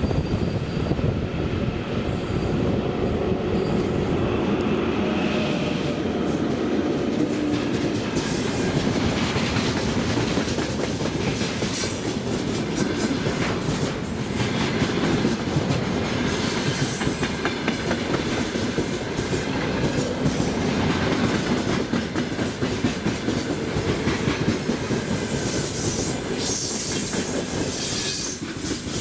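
A freight train of gondola cars rolling past, a steady loud rumble with the clickety-clack of wheels over rail joints and bouts of high-pitched wheel squeal, strongest near the end.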